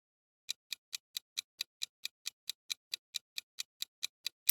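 Clock-style ticking of a quiz countdown timer sound effect: rapid, evenly spaced ticks, about four or five a second, starting about half a second in.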